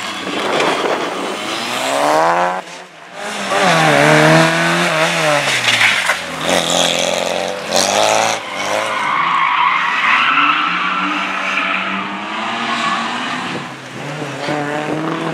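Slalom car's engine revving hard, its pitch climbing and falling again and again with throttle and gear changes, briefly dropping away about three seconds in, with tyres squealing through the turns.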